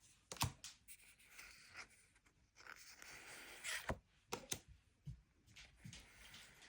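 Pokémon Elite Trainer Box packaging and cards being handled: faint scratching and rustling, with several light taps and clicks.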